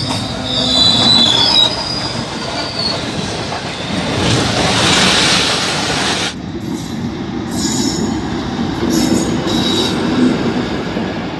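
Diesel-hauled passenger train running through a station at speed: the locomotive and coaches roll past with a steady loud rumble and clatter of wheels on rail, and a high wheel squeal in the first few seconds. The sound changes abruptly about six seconds in.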